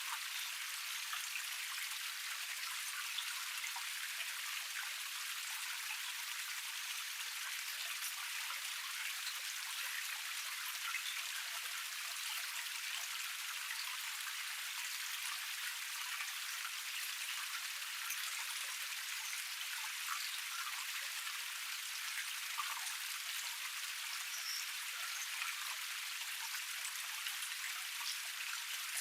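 Water of a small forest waterfall cascade splashing and flowing over rocks: a steady, even hiss with a fine patter of droplets and almost no low rumble.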